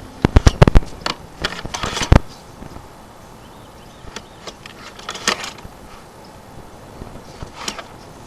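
Irregular sharp clicks and knocks, a quick cluster in the first two seconds and a few scattered ones after: a sewer inspection camera's push cable and head rattling as the camera is fed down a 3-inch vent stack.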